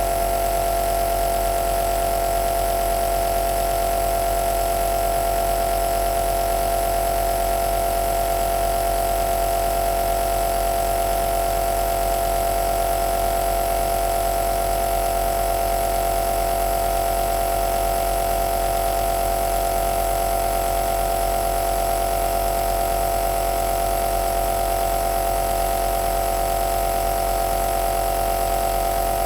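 Compressor nebulizer (aerosol machine) running steadily: a constant motor hum with one strong pitched tone and a hiss of air above it.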